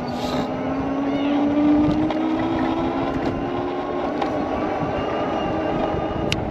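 Wind and ride rumble on the rider's chest-mounted camera while riding an e-bike. A hum rises slowly in pitch over the first four seconds, and there is a single sharp click near the end.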